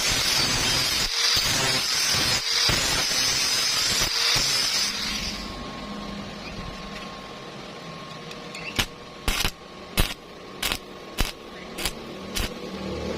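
Stick welding arc crackling and hissing steadily for about five seconds, then cutting off. Later come about eight sharp, separate taps on the metal.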